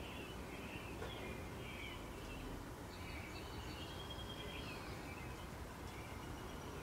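Small songbirds chirping and twittering in short repeated phrases throughout, over a steady low background hum of outdoor noise.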